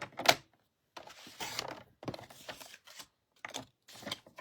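Patterned paper being cut to size on a paper trimmer: sharp clicks, the loudest just after the start, then a scraping swish and paper rustle over the following seconds, with more clicks and scrapes near the end.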